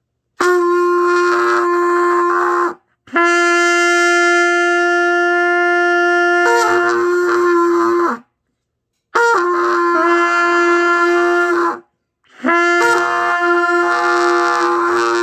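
Trumpet played by a beginner, holding the same long note (sol, written G) four times with short breaths between. The second note is the longest, about five seconds, and wavers in pitch near its end.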